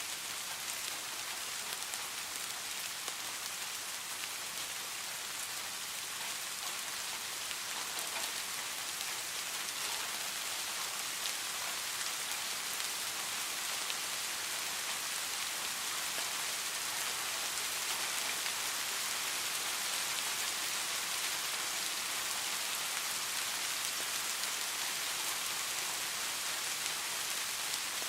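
Steady rain falling, an even hiss dotted with the faint ticks of single drops, swelling a little in the middle.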